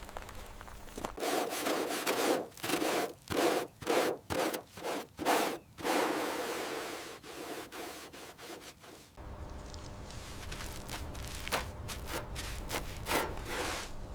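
A run of about ten rubbing or scraping strokes, roughly two a second, then a lower, steadier sound with a few faint clicks.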